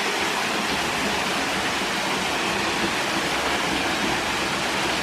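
Waterfall on a forest creek, a steady, even rush of falling water.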